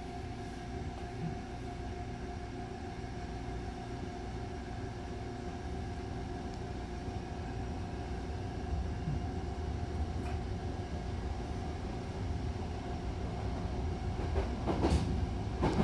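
Hankyu commuter train running between stations, heard from inside the car: a steady low rumble of wheels on rail with a constant hum, gradually getting louder, with a few sharp clatters near the end.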